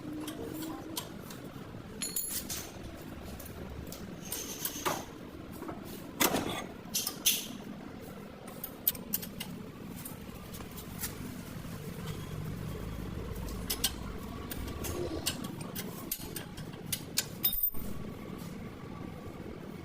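Irregular clicks, clinks and knocks scattered throughout, over a low steady hum.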